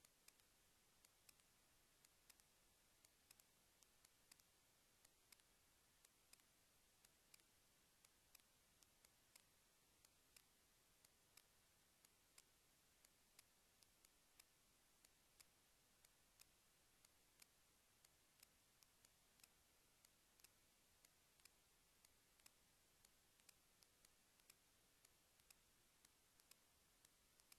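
Near silence with faint, sharp clicks at irregular intervals, a couple a second.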